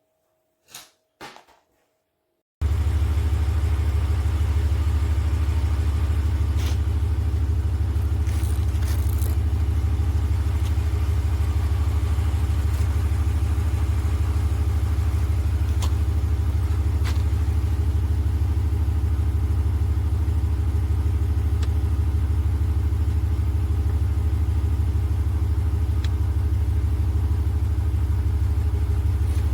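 Portable 12 V air compressor switching on abruptly a couple of seconds in, after two soft clicks, then running with a steady low buzz.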